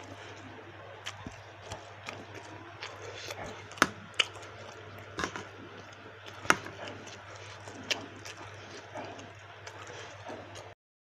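Close-up eating sounds of spicy baso aci: chewing with several sharp clicks and crunches, the loudest about four and six and a half seconds in, over a steady low hum. The sound cuts out just before the end.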